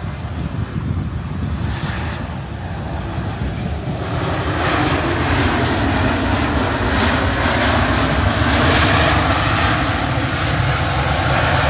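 Jet airliner's engines, close by, growing louder about four seconds in and staying loud as the aircraft passes near the runway.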